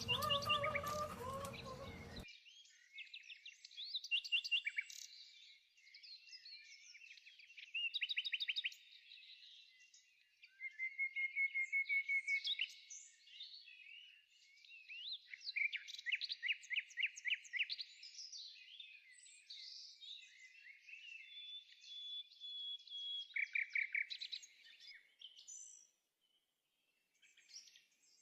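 Songbirds singing, a mix of chirps, rapid trills and whistled notes with short pauses between phrases. It starts just after other sound cuts off abruptly about two seconds in.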